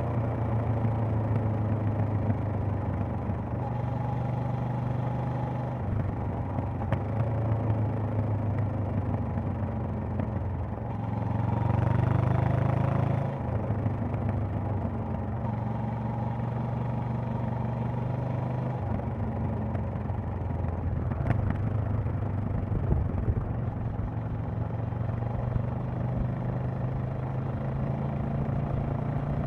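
Honda CB500X's parallel-twin engine and exhaust running on the move, its pitch stepping up and down several times with throttle and gear changes. A louder rushing swell of noise comes about eleven to thirteen seconds in.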